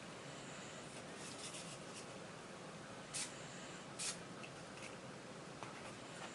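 Faint rustling of hair being handled and curled, with two short hissing sounds about three and four seconds in, over a steady background hiss.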